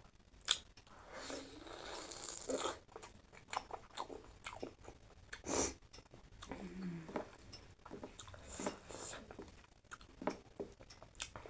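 A person eating mutton curry close to the microphone, chewing and biting with irregular wet crunching and smacking.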